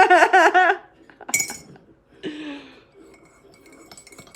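A sharp clink of a cup or dish with a short ring, a little over a second in, followed by a few faint light clinks near the end.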